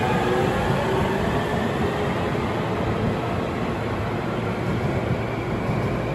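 Nishitetsu electric train pulling into the platform, a steady rumble of wheels on rail with a faint motor whine that fades in the first second or two.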